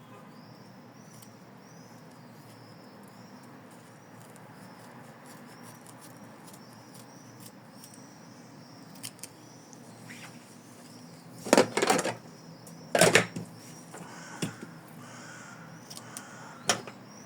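Scissors trimming through two layers of felt: quiet snipping, then two loud bursts of cutting and handling about two-thirds of the way in, a second apart, and a sharp click near the end.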